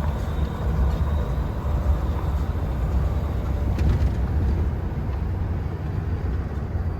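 GE Dash 8 diesel locomotive running with a steady low rumble.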